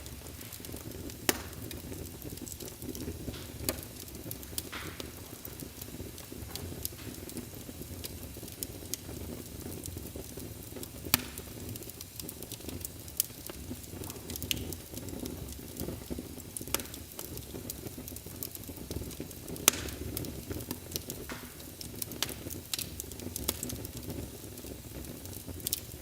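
Wood fire burning in a fireplace: a steady low rumble of flames with scattered crackles and sharp pops of the burning wood, a dozen or so louder pops spread irregularly through it.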